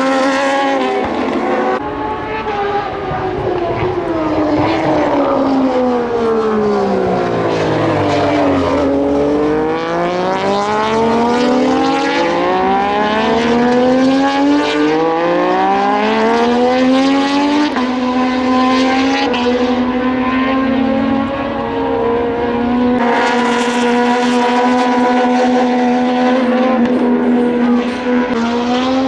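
Moto2 race bikes' Triumph 765 cc three-cylinder engines at high revs. The engine note falls steadily for several seconds, then climbs again, then holds a steady high note near the end.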